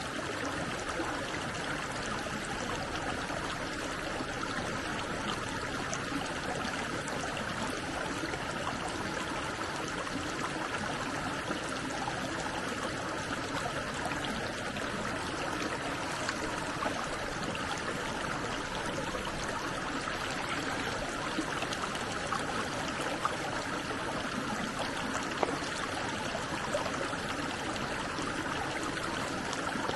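A flowing stream, its water rushing steadily with no break.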